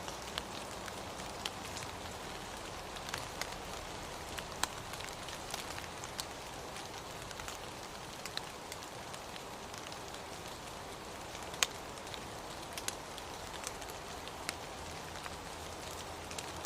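Steady rain: an even hiss with irregular sharp ticks of single drops landing close by.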